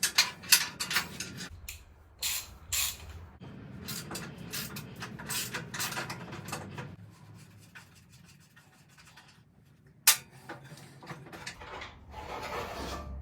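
A spanner working the front axle bolts off a small tractor: repeated metal clinks and scraping, with a single sharp knock about ten seconds in.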